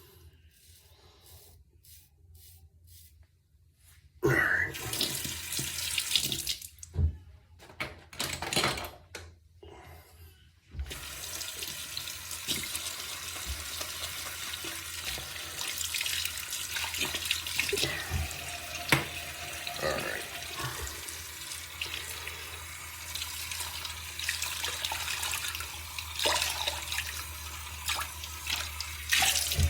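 A bathroom tap runs into a sink in short, splashing spurts, then runs steadily from about eleven seconds in.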